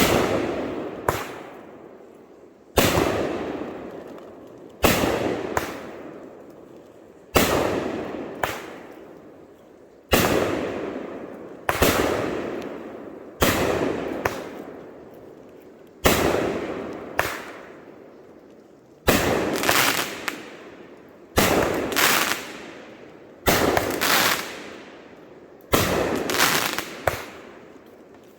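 Consumer 200-gram firework cake firing shot after shot, about one every two seconds: each a sharp bang as the shell breaks, followed by a crackling tail that dies away.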